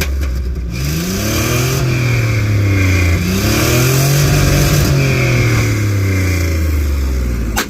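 Truck engine at high revs in a burnout, its pitch swinging up and down repeatedly over screeching tyres. One sharp bang, a backfire, comes near the end, and the engine then cuts back.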